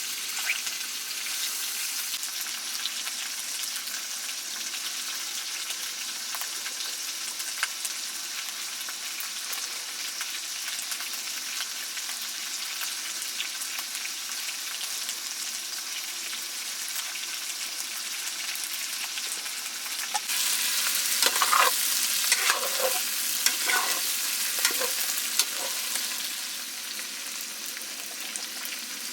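Food sizzling and crackling as it fries in a pan, a steady hiss full of small pops. About twenty seconds in it grows louder for several seconds, with a few brief scraping sounds, then settles back.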